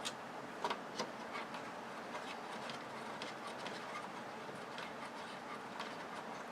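Scattered light metallic clicks of wire snips gripping and turning small brass nuts loose, over a steady background hiss.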